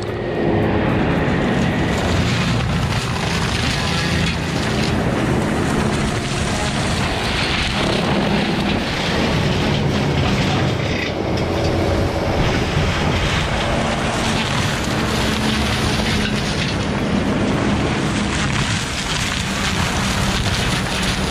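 A heavy forestry machine running steadily at work, its engine and working noise dense and continuous throughout.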